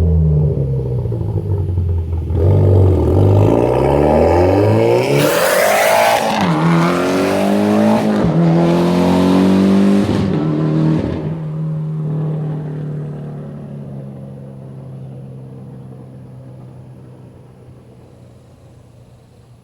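Mitsubishi Lancer Evolution X's turbocharged 2.0-litre four-cylinder with an open-dump downpipe and straight-through exhaust, pulling hard at full throttle as it passes. The pitch climbs and breaks at each upshift, three times, with a loud hiss while it goes by, then a steady engine note fades as the car drives away.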